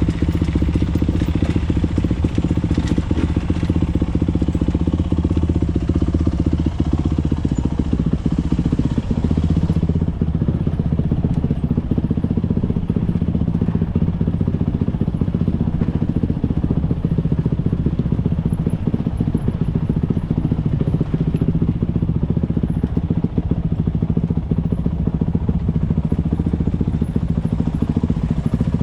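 Motocross bike engine running at a steady pitch, with a hissy upper edge that thins out about ten seconds in.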